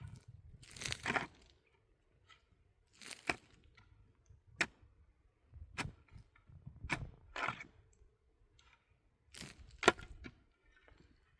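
Repeated blows of a hand digging tool, cracking and crunching into hard ground, about eight strokes spaced one to two seconds apart. The sharpest crack comes near the middle and the loudest blow near the end.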